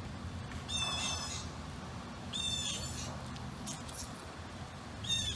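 A bird calling three times in short calls, about a second in, midway and near the end, over a steady low outdoor background rumble.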